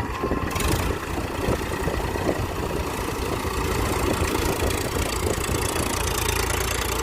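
Tractor's diesel engine running steadily, with a deep drone that grows a little louder about half a second in.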